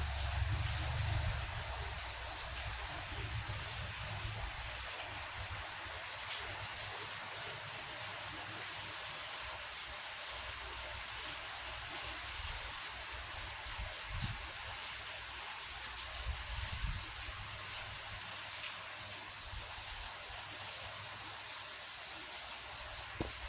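Heavy rain falling steadily, an even hiss, with a low rumble fading out in the first second or two.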